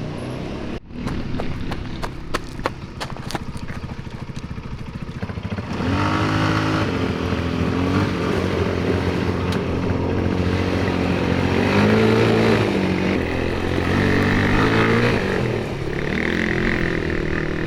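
Motor vehicle engine running, with scattered clicks and rattles in the first few seconds. After that, the engine note rises, holds and falls as the vehicle speeds up and slows.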